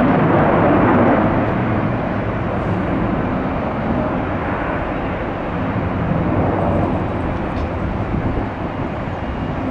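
Steady roar of a jet airliner's engines, mixed with strong gusty wind buffeting an unshielded microphone.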